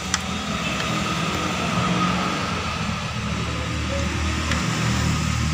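Car petrol engine with coil-on-plug ignition idling roughly with a misfire, while an ignition coil connector is pulled by hand to test whether that coil is dead. A single sharp click sounds just after the start, and the low rumble grows heavier in the second half.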